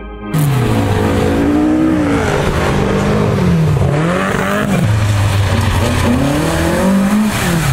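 VAZ Zhiguli race car's four-cylinder engine revving hard. It starts abruptly, and its pitch climbs and drops several times as the driver accelerates, lifts and goes through the gears, over a hiss of tyres and spray.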